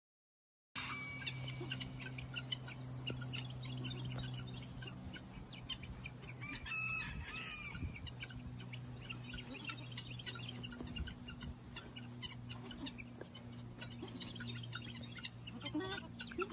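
Outdoor bird sounds: many short bird chirps throughout, with one louder drawn-out call about seven seconds in, over a steady low hum.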